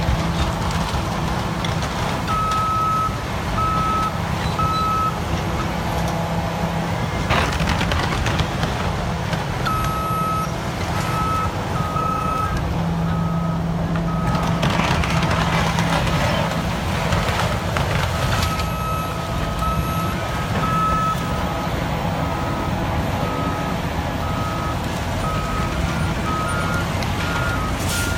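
Caterpillar D9 bulldozer's diesel engine running heavily, with its back-up alarm beeping in several spells as it reverses. A few louder noisy stretches cut in over the engine.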